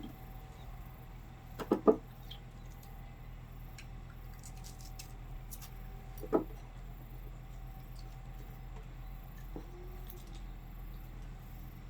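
A few light knocks from ingredients and utensils being handled at a cooking pot: a quick double knock about two seconds in, the loudest, another near six seconds and a softer one later, over a faint steady hum and scattered small ticks.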